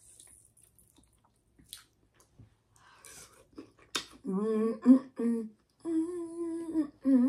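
A woman humming a tune in several short held notes through the second half, after a few seconds of faint chewing and mouth clicks and one sharp click.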